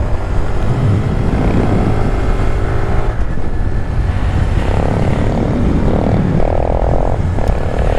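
Honda Grom's single-cylinder engine running steadily at road speed, under heavy wind rumble on the microphone.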